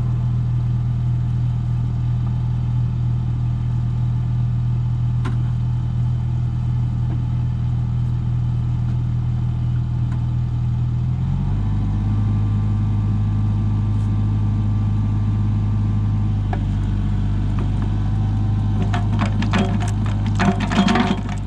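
Bobcat 425 compact excavator's diesel engine running steadily, its pitch shifting about halfway through. Near the end come a run of sharp metallic clanks and knocks.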